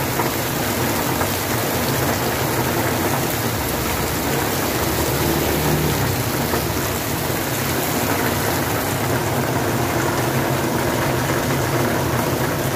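Heavy typhoon rain falling steadily, a dense even hiss. A low rumble swells in the middle for a few seconds.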